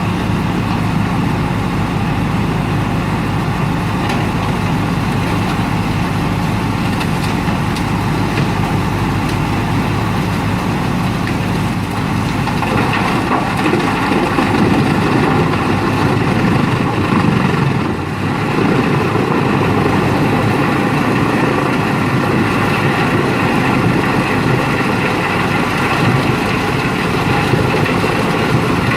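Wood chipper's engine running steadily under power. About twelve seconds in a rougher, grinding noise joins it and carries on, with a brief dip a few seconds later.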